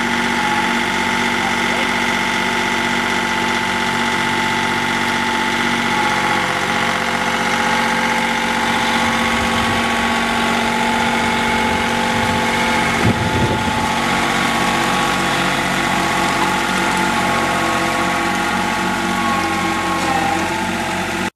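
Tractor engine running steadily, with a brief low rumble about thirteen seconds in.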